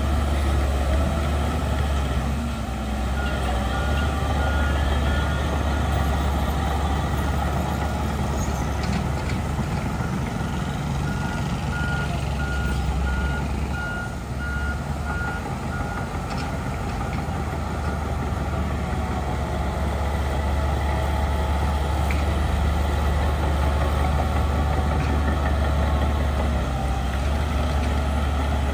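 Heavy diesel earthmoving machinery running steadily with a deep rumble. A reversing alarm beeps a steady high tone, roughly twice a second, from a few seconds in until about halfway through.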